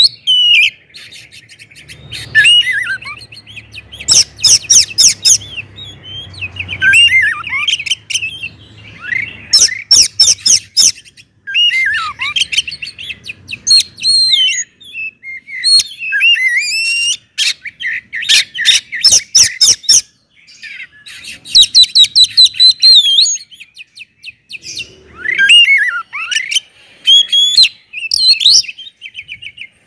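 Oriental magpie-robin (kacer) singing a loud, varied song. Clear sweeping whistles and fast trills alternate with short bursts of rapid rattling notes, and brief pauses fall between phrases.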